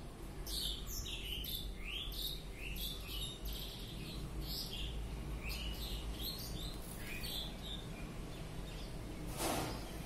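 Bird chirping: a quick series of short, high chirps, several a second, some sliding up and some down, that stops about three quarters of the way through. Near the end comes a brief rustle, likely the wings, over a steady low hum.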